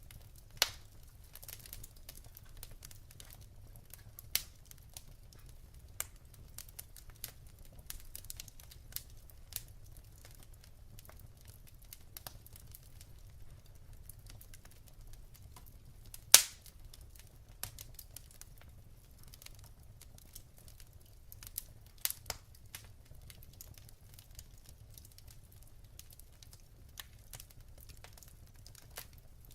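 Wood fire crackling in a fireplace: burning logs give a soft, constant crackle with scattered sharp pops. The loudest pop comes about halfway through.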